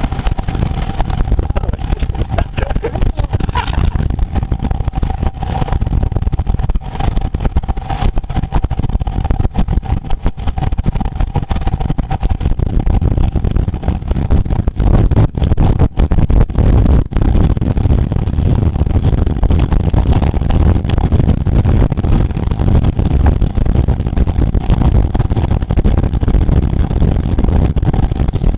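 Wind rushing and buffeting over the microphone of a camera riding along in a road bike race, with a steady whine in about the first half.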